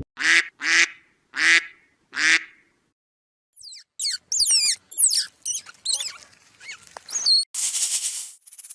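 Four short nasal calls, quack-like, in the first two and a half seconds. After a brief gap comes a run of quick, high chirps and whistles like birdsong, and near the end a loud burst of harsh noise.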